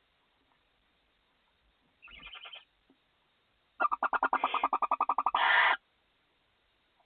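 Barn owl calling in the nest box: a short, rapid pulsed trill about two seconds in, then a louder trill of about two seconds made of quick, evenly spaced notes.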